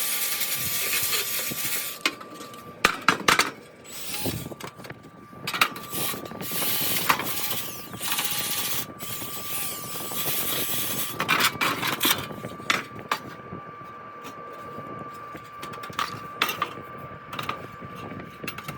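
Lint being scraped and brushed off a rooftop dryer vent's exhaust port: irregular rubbing scrapes and sharp clicks and knocks of the cover. A faint steady thin tone runs underneath, and a steady hiss fills the first couple of seconds.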